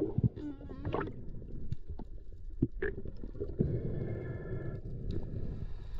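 Muffled water noise with gurgling around a camera in the sea, with a few short knocks.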